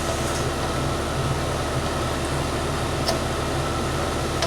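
A steady mechanical hum with low droning tones, like a fan running, with a couple of faint clicks about three seconds in and near the end.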